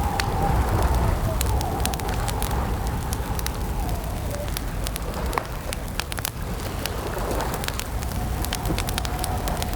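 Campfire crackling, with frequent sharp pops and snaps over a steady low rumble. A faint wavering tone comes and goes in the background.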